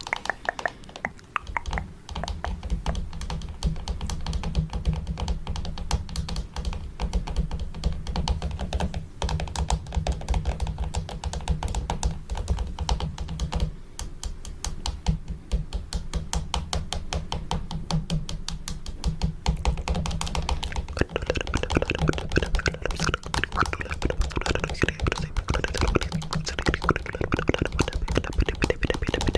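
Fingernails tapping rapidly on a camera: a fast, continuous stream of clicking taps that grows fuller about twenty seconds in.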